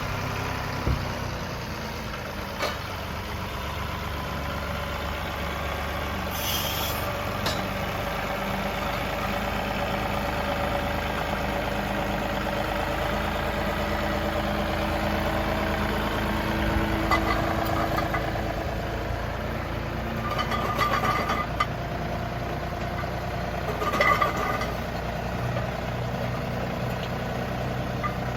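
John Deere 2038R compact tractor's diesel engine running steadily, its pitch drifting a little as the revs change, with a few short knocks along the way.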